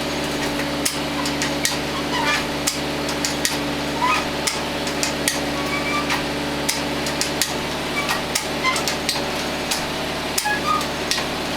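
Tractor engine idling steadily, with sharp clicks and knocks at uneven intervals, roughly one or two a second.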